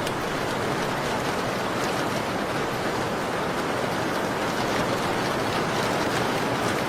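Steady falling rain, an even continuous hiss, with faint scattered sharp ticks.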